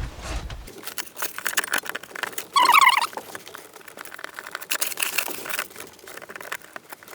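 Yellow protective plastic film being peeled and pulled out of a solar tube's reflective tubing: a run of crackles and rustling, with a short wavering squeak about two and a half seconds in.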